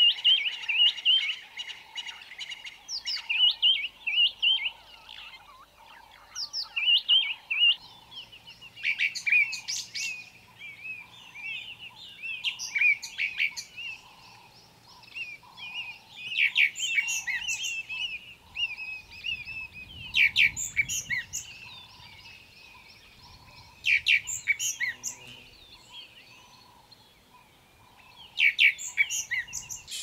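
Wild birds chirping and singing in bursts every few seconds, with a soft low note repeating steadily underneath.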